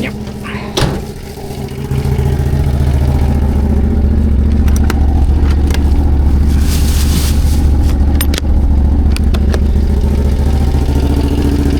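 CFMOTO CForce 1000 ATV's V-twin engine running quietly, then revving up about two seconds in and holding steady under throttle, with a few sharp clicks over it. Shortly afterwards the rider hears a noise from one cylinder, which he suspects is the valves or the timing chain.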